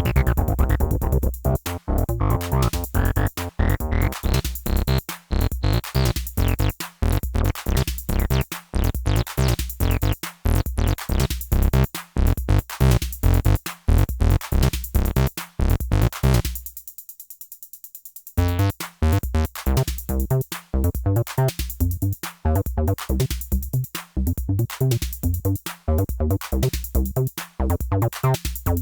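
Acid-style electronic music: Behringer TD-3-MO and TD-3 bass synths (TB-303 clones) running fast sequenced bass lines over a Behringer RD-8 drum machine beat. The filter opens over the first few seconds, brightening the line, and about sixteen seconds in the music drops out for nearly two seconds before the full pattern comes back.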